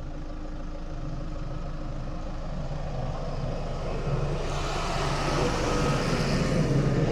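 A motor vehicle engine running steadily, growing louder from about four seconds in, with rising noise over the hum.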